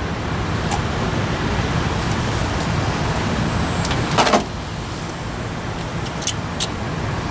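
Steady low engine rumble, with a few sharp clicks over it, the loudest a knock about four seconds in.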